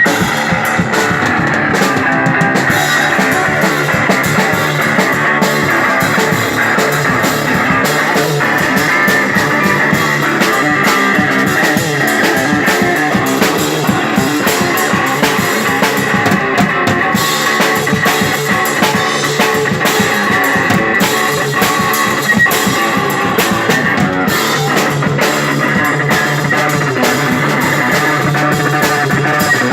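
A psychedelic rock band playing an instrumental passage: electric guitar over a drum kit with frequent cymbal strikes, without a break.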